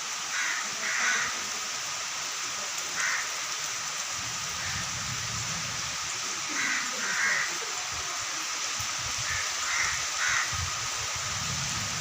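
Birds calling in short calls, mostly in pairs, over the steady hiss of heavy rain, with gusts of wind rumbling now and then.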